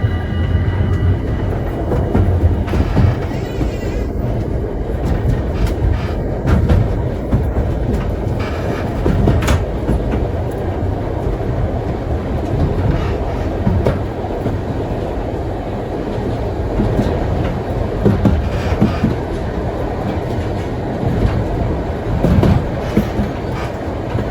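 Heritage steam train rolling along the track: a steady rumble with the wheels clicking over the rail joints.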